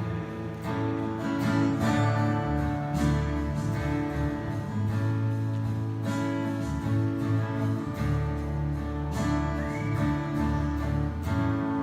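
Instrumental worship music: an acoustic guitar strumming over sustained chords and a bass line, with the chord changing every couple of seconds.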